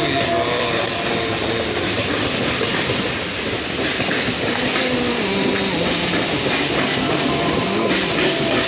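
Mumbai suburban local electric train running on the rails with a steady rumble and clatter, and faint whining tones that slowly shift in pitch.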